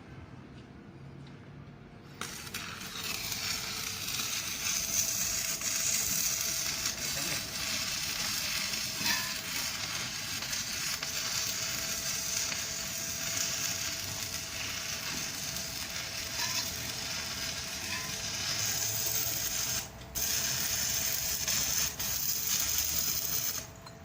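Electric arc welding: the arc strikes about two seconds in and runs as a steady crackle and sizzle, breaks off for a moment near the end, then restarts before stopping.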